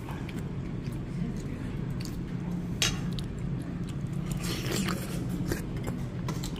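A person chewing a mouthful of soup-soaked rice, with a few sharp clicks, over a steady low hum.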